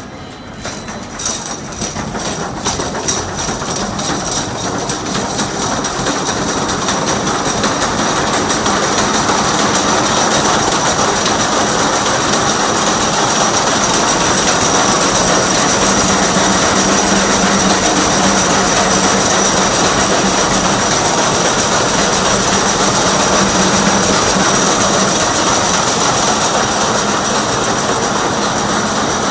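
24-carrier horizontal wire braiding machine spinning up, its clicks growing denser and louder over the first several seconds. It then runs at full speed with a steady, dense mechanical clatter and a constant high tone.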